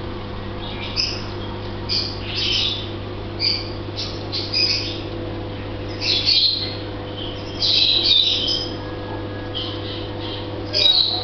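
A small bird chirping in short, high, irregular bursts about once a second, over a steady low hum.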